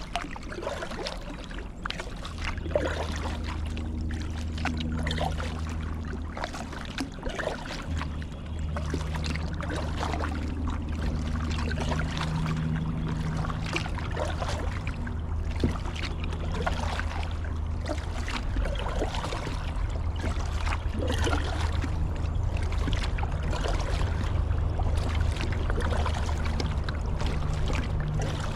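Kayak being paddled on a river: water splashing and dripping off the paddle blades in irregular strokes, over a steady low rumble.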